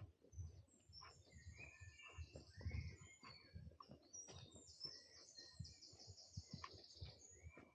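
Forest birds singing, with several trilling songs and short chirps overlapping, faint. Soft low thuds of walking footsteps on the trail sound underneath, about one every half second.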